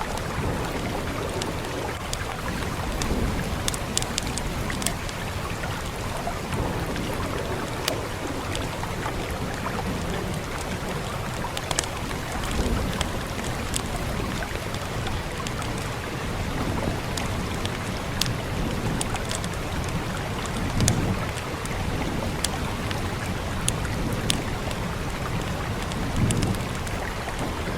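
Steady rain with the sharp crackles and pops of a burning wood fire scattered through it, and a few soft low rumbles now and then.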